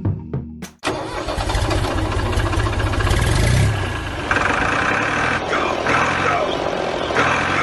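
Small motor of a DIY model mini tractor running with a grinding mechanical noise, which starts abruptly about a second in after the music cuts off. From about halfway a higher whine with repeated squeaks joins it.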